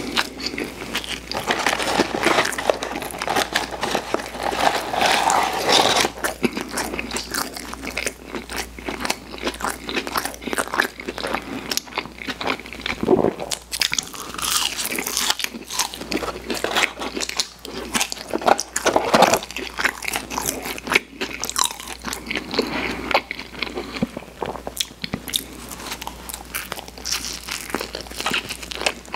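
A person chewing and biting mouthfuls of burger and French fries, with dense, irregular small wet mouth clicks throughout.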